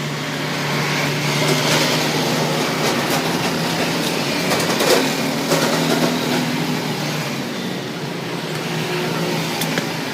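Electric power tool motor running steadily with a constant hum and whirring noise, with a few sharp clicks along the way.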